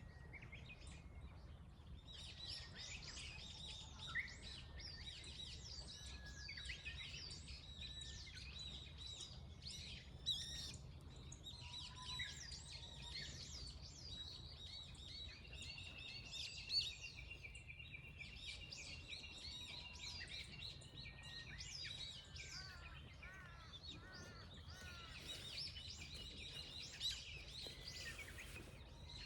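Several birds chirping and singing at once in quick, overlapping calls, with one long steady trill about halfway through, over a low steady rumble.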